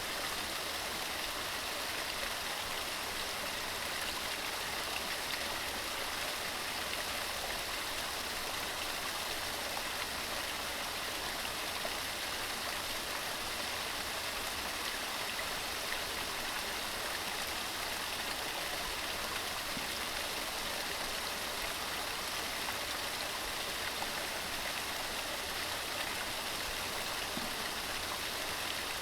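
Waterfall splashing over rocks: a steady, even rush of falling water that holds without change.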